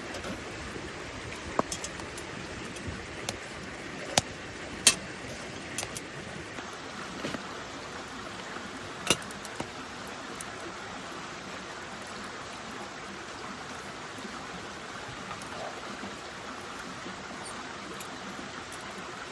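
Steady rain hiss with scattered sharp clicks and pops, a handful in the first ten seconds and the loudest about five seconds in.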